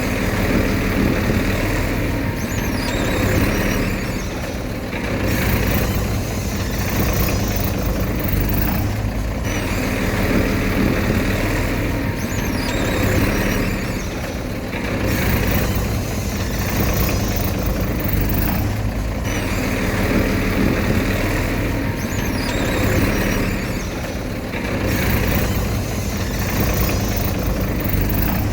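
Diesel engine of heavy earthmoving machinery running steadily, with a hissing upper layer that swells and fades every few seconds.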